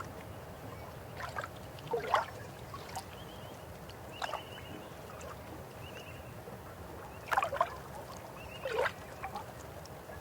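River water flowing with a steady rush, broken by irregular gurgles and splashes, the loudest about two seconds in and again around seven and a half and nine seconds. Short high chirping trills recur every second or two.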